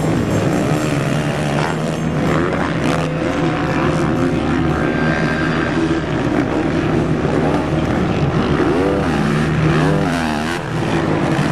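Motocross bike engines running and revving during a race, with their pitch swinging up and down in the last few seconds.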